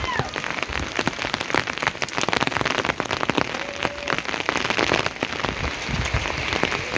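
Steady rain falling, a dense hiss with many separate drop hits close by.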